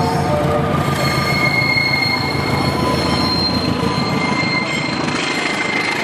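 Train passing close by: a loud steady rush of wheels on rail, with thin high-pitched squealing of wheel flanges against the rails from about a second in. The last note of the train's horn dies away in the first half-second.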